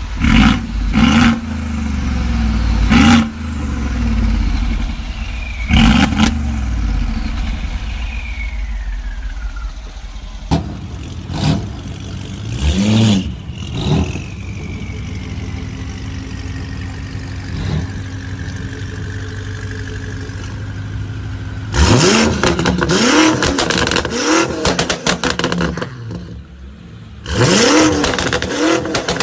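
Supercar engine and exhaust revving in short blips, each rev ending in sharp cracks, then running steadily with a slowly falling pitch through the middle. Near the end come two bursts of rapid popping and crackling from the exhaust as the engine is revved.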